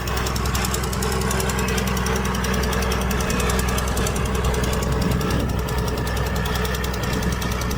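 Heavy diesel engine of earthmoving machinery running steadily, with a fast, even clatter over a deep drone.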